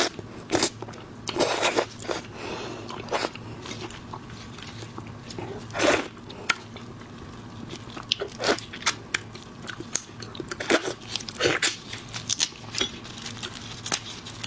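Shellfish being eaten: shells cracking and crunching in irregular sharp snaps, with chewing between them.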